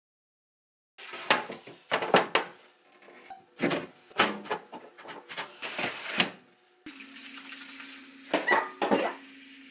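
Kitchen dishes and food containers being handled, clinking and knocking against each other and the shelves in a run of sharp clatters. About seven seconds in a steady low hum starts, with a few more knocks over it.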